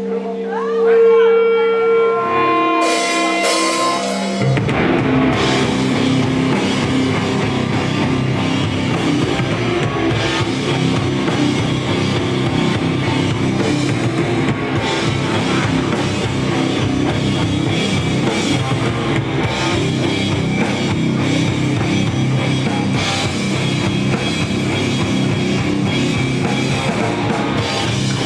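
Live rock band playing heavy rock. A few sustained held notes open, then about four seconds in the full band comes in with drum kit and guitars and plays on steadily.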